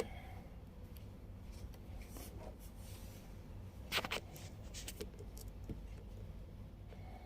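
Faint rustling and scraping handling noises over a low steady hum, with one louder short rustle about four seconds in.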